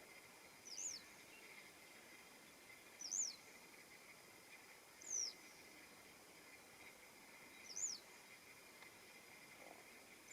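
Western yellow wagtail giving short, thin, high call notes, each quickly falling in pitch, four times about two to three seconds apart, over a faint steady background hum.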